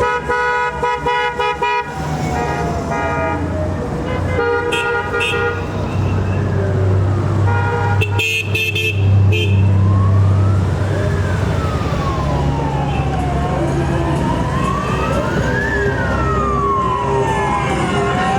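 Honda Gold Wing motorcycles riding past in a parade with engines rumbling, sounding horns in three bursts in the first half. From about halfway a siren wails, slowly rising and falling.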